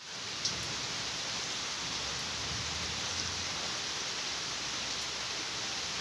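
Steady rain falling: an even hiss, with a faint tick of a drop now and then.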